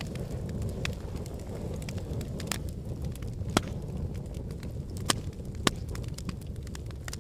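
Wood logs burning in a fireplace: a steady low rumble of the flames with scattered sharp crackles and pops, roughly one or two a second, the loudest a little past the middle.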